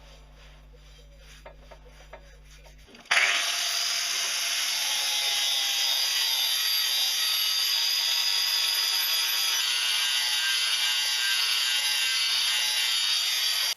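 Angle grinder switched on about three seconds in, then cutting or grinding steel with a steady, loud, high-pitched rushing noise. Before it starts there are only a few faint clicks over a low hum.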